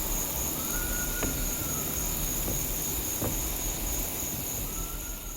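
Outdoor insect chorus: a steady, high-pitched buzzing drone, with a faint whistle-like tone that comes and goes twice and a few light clicks.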